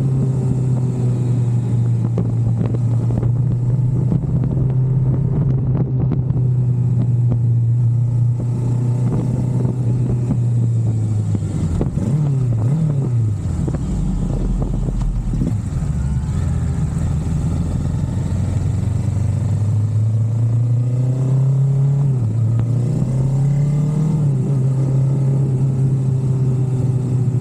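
A vehicle engine running steadily. About halfway its pitch wavers and falls low for a few seconds before climbing back, and it dips briefly once more near the end.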